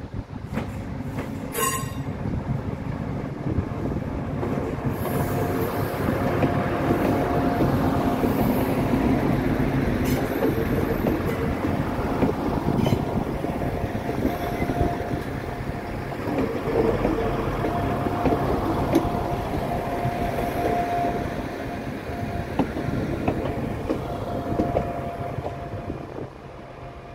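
Transport for Wales Class 175 diesel multiple unit running slowly past over the station pointwork: engine and wheel rumble on the rails, with a thin high squeal coming and going as it rolls through. The sound fades near the end.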